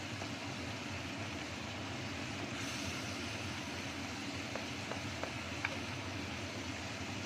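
Red spice paste sizzling and bubbling in a wok under a steady mechanical whoosh, likely a kitchen exhaust fan. A few light taps and scrapes of a wooden spatula on the wok come in the second half.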